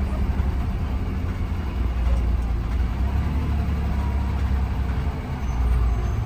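Blue Bird Vision school bus running, heard from inside the cabin as a steady low engine rumble.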